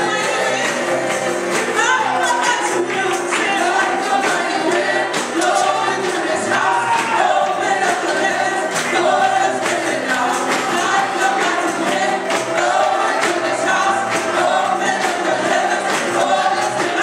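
Gospel worship music: a group of voices singing together over instrumental accompaniment with a percussive beat.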